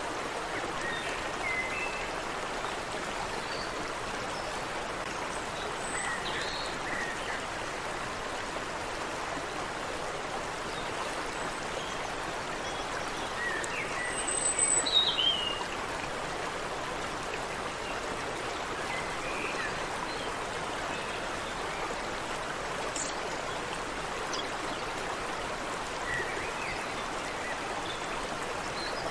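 Steady rush of a stream running over rocks, with scattered short bird chirps and calls above it, the loudest a brief burst of chirps about halfway through.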